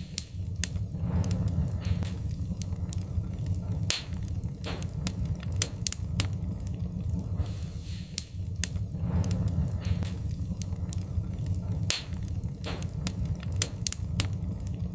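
Wood fire crackling in a fireplace: irregular sharp pops and snaps of burning logs, a few louder than the rest, over a steady low rumble of the flames.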